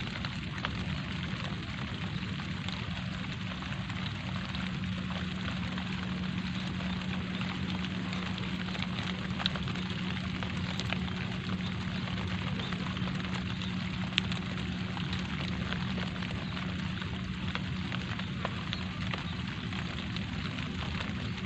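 Light rain falling steadily: an even hiss with scattered sharper drop hits. Two of the hits stand out, about 9 and 14 seconds in.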